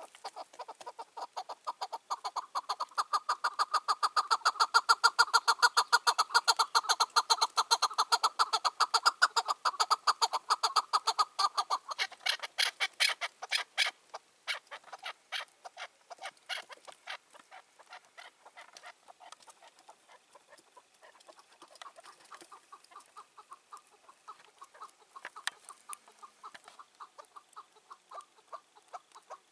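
Chukar partridge calling: a long, rapid run of clucking notes, loudest for about the first twelve seconds, then fainter and more broken up.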